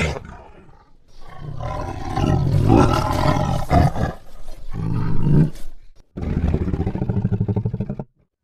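A big cat roaring: one long roar, then a second, shorter one with a fast pulsing rumble, ending abruptly.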